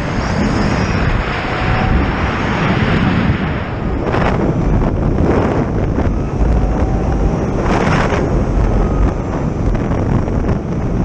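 Wind buffeting the microphone on a moving Zero FX electric motorcycle at road speed, a steady low rumble with louder gusts about four and eight seconds in.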